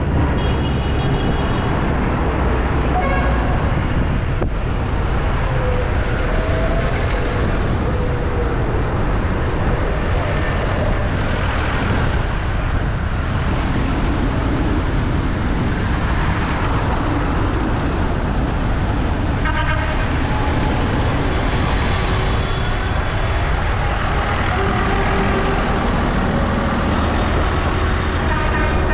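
Tractor engines running steadily as a line of tractors drives by, with several short horn toots along the way.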